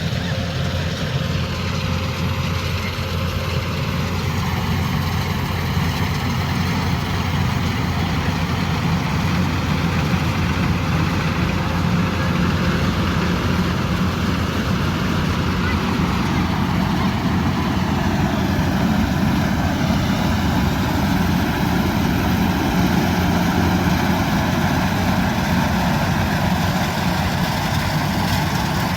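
Kubota DC-108X combine harvester running steadily: a continuous diesel engine drone with a broad mechanical hiss from the machine over it, drifting slightly in pitch.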